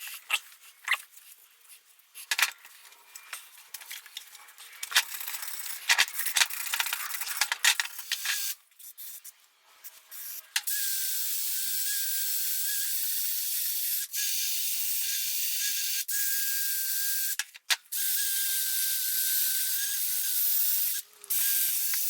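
Irregular scraping and clicking strokes on a steel VW Bus front spindle for about the first ten seconds. Then a powered wire wheel runs against the spindle to strip surface rust, giving a steady high hiss with a thin, even whine. The hiss is cut off briefly several times.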